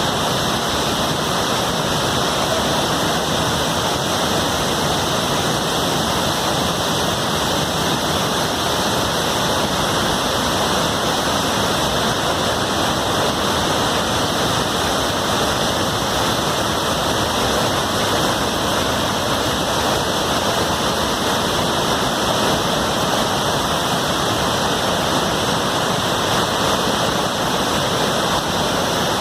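Large waterfall pouring down: a steady, even rush of falling water with no change in level.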